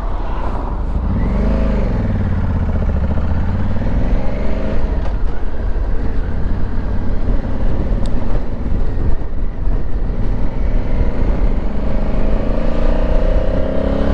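Honda Africa Twin's parallel-twin engine under way on the road, heard from the rider's position with heavy wind rumble. The engine pitch rises and falls about a second in, then climbs as the bike accelerates near the end.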